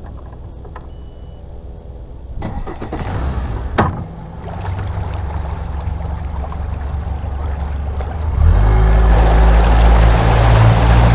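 Boat engine running low and steady, picking up a little about two seconds in with a sharp click, then throttling up hard about eight seconds in. Once the boat gets under way, the engine's louder steady drone is joined by rushing water and wind.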